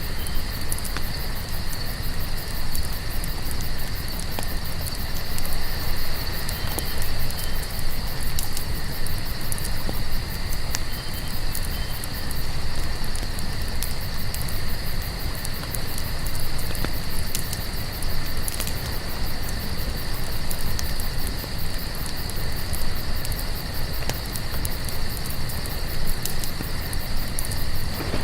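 Crickets chirping steadily over a crackling campfire, with scattered sharp pops and a constant low rumble of flames.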